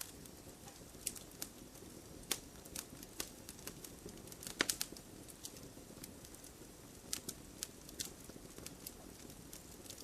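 Wood fire in a fireplace crackling: irregular sharp pops and snaps of burning logs over a soft, steady low rumble of the flames, with a cluster of louder pops about halfway through.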